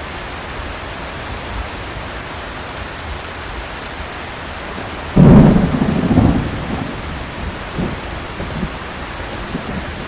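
Steady heavy rain, then a sudden loud thunderclap about five seconds in that rumbles on and fades over a second or two.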